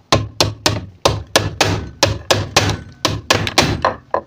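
Small hammer tapping repeatedly on a sewing machine's metal part, about four quick strikes a second, knocking it sideways so the needle drops in the centre instead of rubbing against one side.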